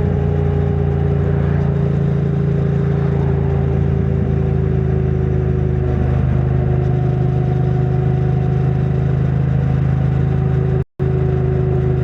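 2022 Triumph Bonneville T100's 900 cc parallel-twin engine, stock exhaust, running steadily under way, its pitch easing slowly down. The sound cuts out abruptly for a moment near the end.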